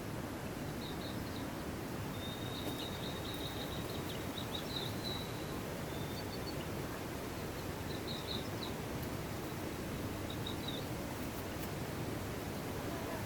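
Steady rushing of a mountain stream, with faint, high, short chirps from birds or insects scattered on top.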